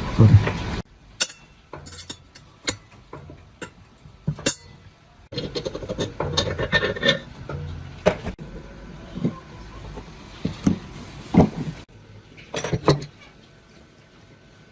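Metal parts and hand tools clinking and knocking during workshop repair work, in short clips with abrupt cuts between them. Sharp knocks come at irregular intervals, with a few louder strikes.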